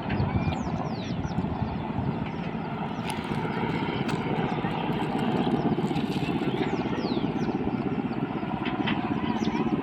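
Helicopter running steadily, its rotor making a fast, even pulsing.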